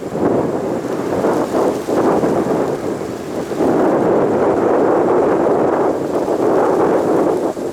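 Loud crackling roar of a departing jet airliner's engines at takeoff thrust, surging and swelling louder partway through.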